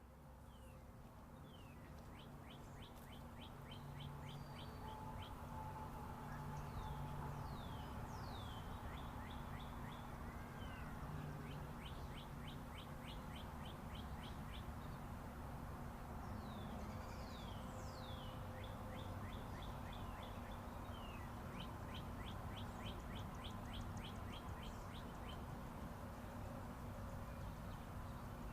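Several songbirds chirping and singing rapid trills of short, quick notes, over the steady hum of distant interstate highway traffic. The sound fades in over the first several seconds.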